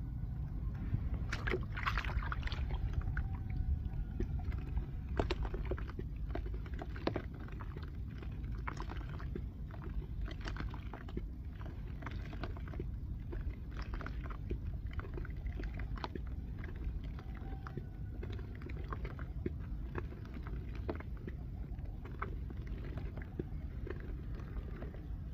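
Dry red dirt clay crunching and crumbling: irregular sharp crackles and snaps, busiest in the first several seconds, over a steady low rumble.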